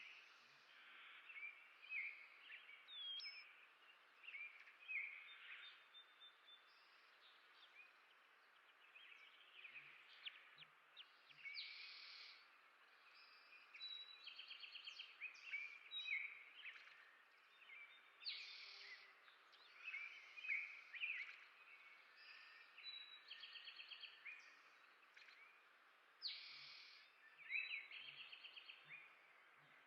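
Several songbirds chirping and singing, with short whistled notes and quick trills coming and going, over a faint steady outdoor hiss.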